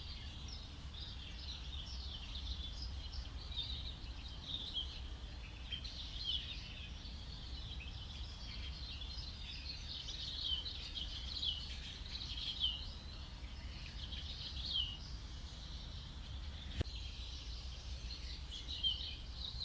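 Jungle ambience: many small birds chirping in short, quick high notes over a low steady rumble, with a single sharp click about seventeen seconds in.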